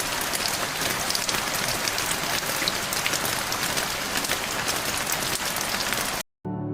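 Heavy rain falling steadily: a dense hiss full of the patter of individual drops hitting surfaces. It cuts off abruptly near the end, and soft ambient music starts after a brief gap.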